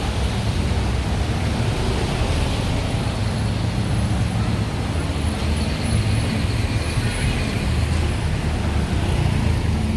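Busy city road traffic: a steady rumble of vehicle engines and tyres passing along the street.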